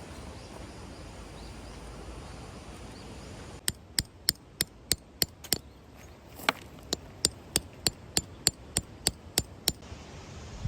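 A hammer driving a tent peg into the ground: about nineteen sharp strikes at roughly three a second, starting a little over three seconds in and stopping near the end, after a steady outdoor hiss of wind.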